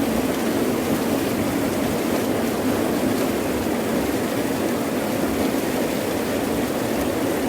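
Heavy rain falling steadily, a dense even wash of noise with no breaks.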